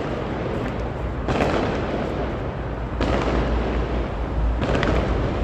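Fireworks booming out of sight, three bangs about a second and a half apart, each trailing off in a long rumble. The echo is loud enough that the rumble seems to rebound off the surrounding walls.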